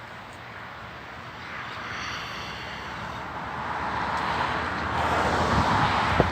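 A road vehicle approaching, its tyre and engine noise growing steadily louder, with a single sharp click near the end.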